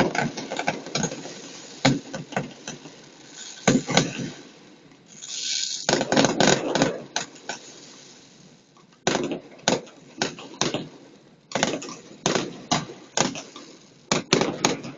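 Fireworks going off: a steady run of sharp bangs and cracks, with a hissing crackle about five seconds in, a short lull, then quick volleys again.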